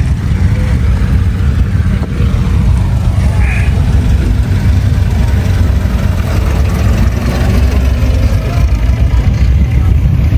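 Classic car engine running with a loud, steady low rumble as the car pulls slowly away.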